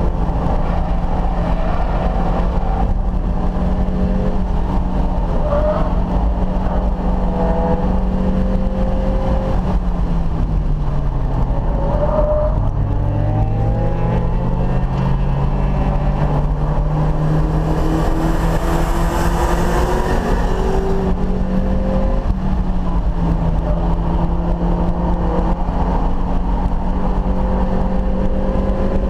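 Mazda Miata's four-cylinder engine on track, heard from inside the car: it runs at high revs, drops in pitch about ten seconds in as the car slows for a corner, then climbs steadily as it accelerates out. Wind and road noise run underneath.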